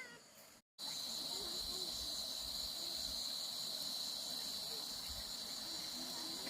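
Insects chirring in a steady, high-pitched, unbroken drone, which starts abruptly just under a second in.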